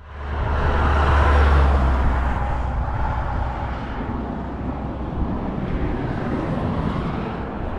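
A motor vehicle's low engine rumble, loudest in the first two seconds, over steady road and traffic noise.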